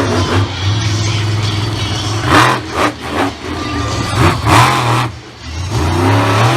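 Monster truck engine revving up and down, with several short, loud bursts of revs about halfway through.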